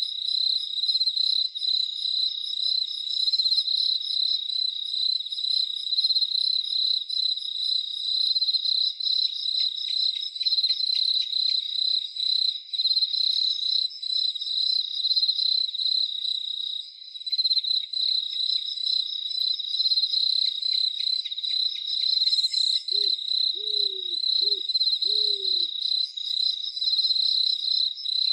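Crickets chirring steadily at a high pitch, with an owl calling a series of four short hoots, each dropping slightly in pitch, about two-thirds of the way through.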